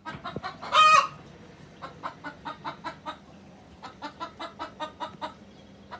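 Domestic hen cackling: a loud drawn-out squawk about a second in, then a long run of short clucks at about four a second, the pattern of a hen's egg song.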